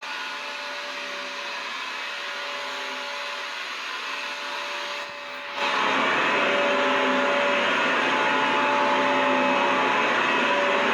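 Vacuum cleaner motor running steadily with a hum and whine. It dips briefly about five seconds in, then carries on louder and fuller.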